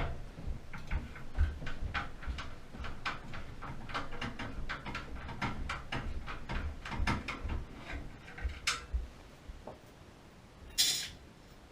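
A rapid, irregular run of small clicks and taps, typical of metal parts and tools being handled while a gas water heater is taken apart. The clicks thin out near the end, and a short scrape follows shortly before the end.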